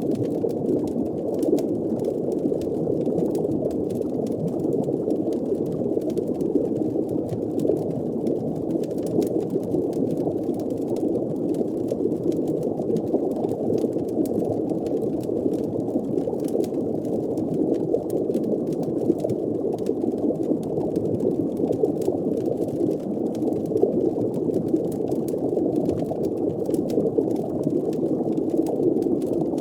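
Steady, muffled underwater ambience: a deep, even rumble of water and bubbling, with faint scattered crackles throughout.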